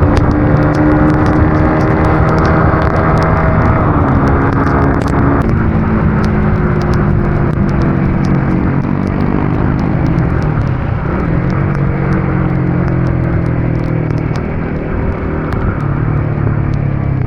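Vehicle engine running at road speed over a heavy haze of road and wind noise. Its pitch steps down about four and five and a half seconds in, then climbs again, with scattered sharp ticks throughout.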